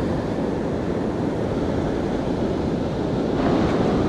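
Ocean surf washing in on a beach, a steady rush of waves, with wind on the microphone.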